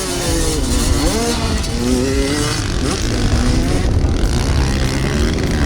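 Dirt bike engines revving on the track, their pitch rising and falling repeatedly through the first few seconds as the riders work the throttle.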